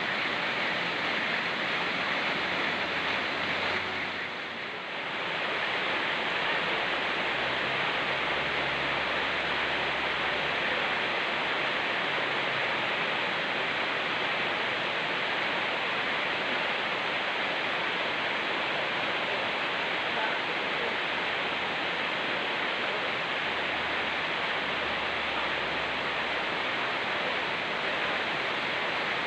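Rain falling together with a fast-flowing mountain stream: a steady, even rush of water, dipping briefly about four seconds in.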